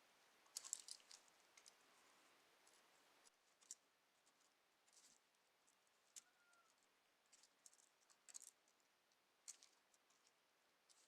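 Near silence with faint, irregular small clicks and ticks, the loudest cluster just after the start.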